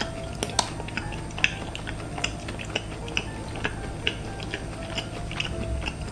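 Close-miked chewing of a breaded, seasoned cheese stick with the mouth closed: irregular small wet clicks and smacks, a few each second.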